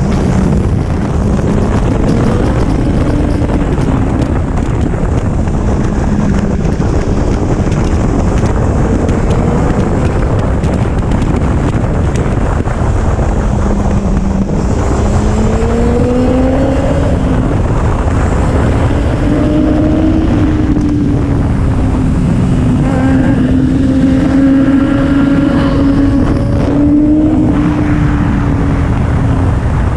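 2011 Kawasaki ZX-10R's inline-four engine running under way, its pitch rising and falling again and again with the throttle, over heavy wind noise on the microphone.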